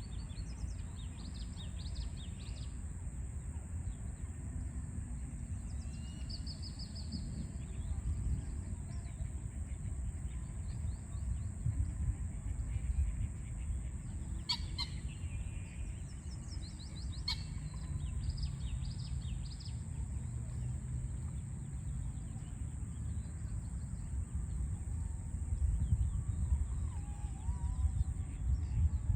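Small birds chirping in short, repeated trills over a steady low rumble of city traffic, with a constant high hiss. Two sharp clicks come about halfway through.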